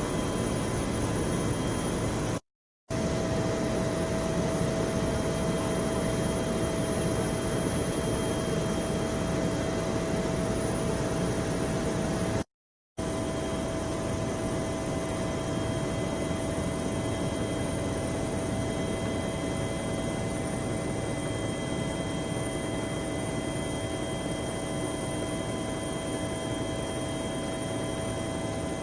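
Helicopter in flight: a steady engine and rotor noise with a constant high whine. It drops out twice for a moment, early and about twelve seconds in.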